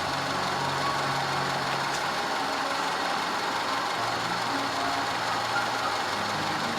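Audi 2.0 TFSI turbocharged four-cylinder engine idling steadily.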